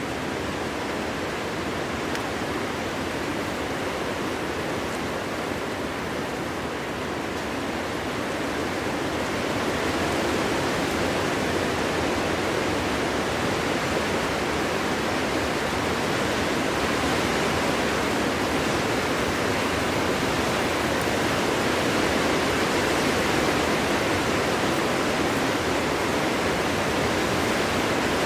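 Wind blowing through a forest: a steady rushing noise that grows louder about ten seconds in and stays up.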